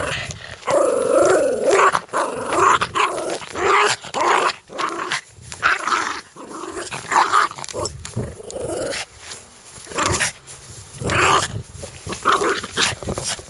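A dog growling in repeated harsh bursts, about one a second, with a wavering pitched growl near the start.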